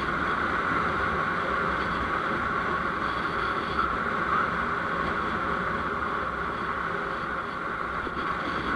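Steady noise of a vehicle in motion on the road: an even engine and road hum with no sudden events.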